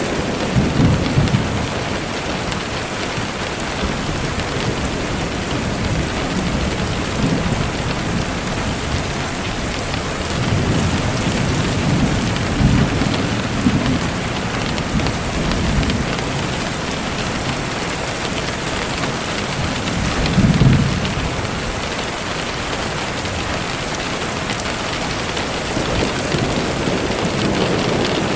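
Steady rain falling, with a few short, low rumbles now and then, the strongest about two-thirds of the way through.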